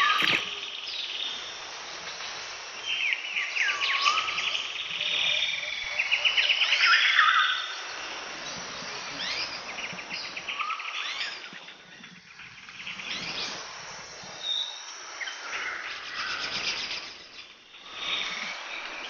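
Several birds calling and chirping, with rapid trilled calls a few seconds in, the loudest near the middle, over a soft natural background hiss.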